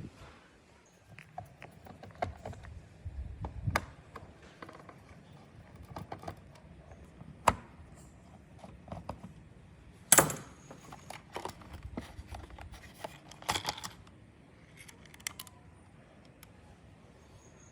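Irregular clicks, taps and small clatters of tools and small parts being handled on a workbench, with the loudest sharp click about ten seconds in.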